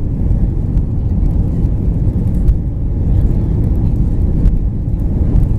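Cabin noise of an Airbus A319 rolling on the ground after landing: a steady low rumble from the wheels and the idling CFM56 engines, with a few faint clicks and rattles from the cabin.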